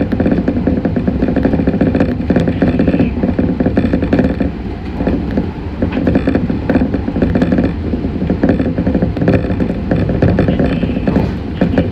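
Meitetsu 6500 series electric train running, heard from inside the car: a steady low rumble of wheels and running gear with constant rattling and clattering over it.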